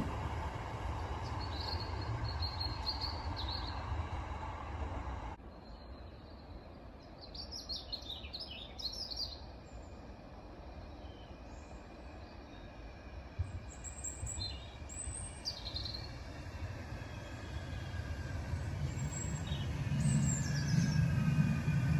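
Manchester Metrolink tram rumbling away, its noise dropping off sharply about five seconds in. Small birds chirp now and then through the lull. Near the end another tram approaches, its rumble and motor whine growing louder.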